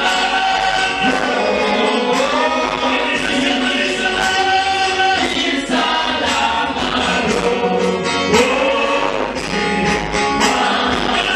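Gospel choir singing a worship song with instrumental backing, voices held on long sustained notes.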